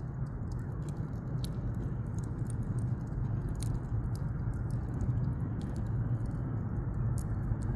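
Wood campfire burning, with irregular sharp crackles and pops over a steady low rushing noise.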